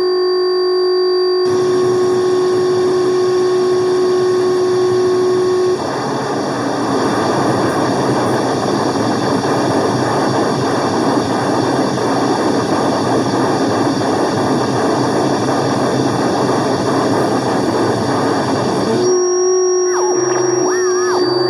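Harsh noise from an electronic noise rig run through fuzz and distortion pedals, including a Metal Zone. A steady pitched drone is joined by a dense wall of distorted noise about a second and a half in. The drone drops out around six seconds while the noise carries on, then returns near the end with wavering pitches.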